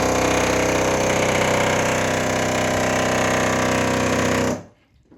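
A loud, steady mechanical buzzing drone with a rattly edge, the awful noise the device is complained of, cutting off suddenly about four and a half seconds in.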